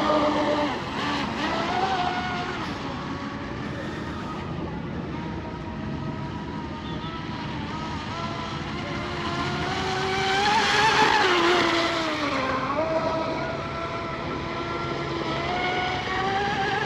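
Water-cooled 3660 brushless electric motor of an RC hydroplane boat on 4S, whining as the throttle is worked: the pitch rises and falls, climbs to its loudest about ten seconds in, then dips and rises again.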